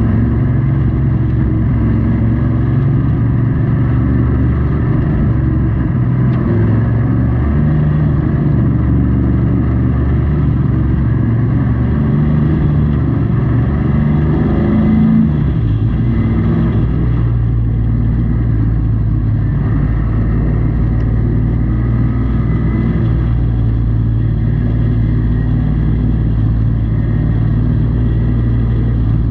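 Race truck engine heard from inside the cab, running hard and steady, with the pitch lifting and then dropping about halfway through as the driver comes off and back onto the throttle.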